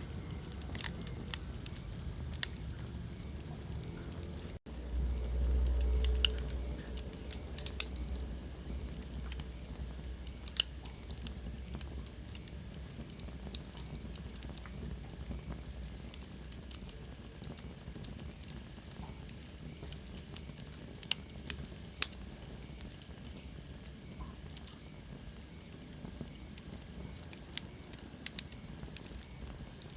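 Wood fire crackling in a fireplace: a steady low hiss with scattered sharp pops. A low rumble swells for a couple of seconds just after a momentary break about five seconds in. A faint high whistle falls in pitch around two-thirds of the way through.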